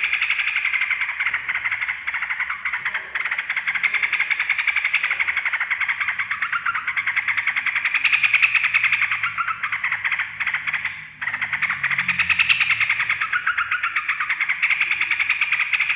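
Rapid, continuous chattering of a yellow-vented bulbul (trucukan), a dense run of fast notes that breaks off briefly about eleven seconds in. Audio like this is used to prompt a pet trucukan into singing back.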